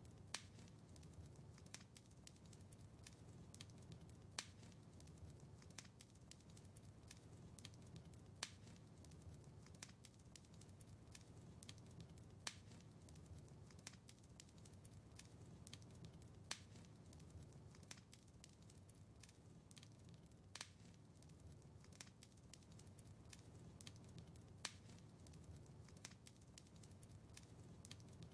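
Faint crackling wood fire in a fireplace: a steady low rumble with scattered sharp crackles and a louder pop about every four seconds.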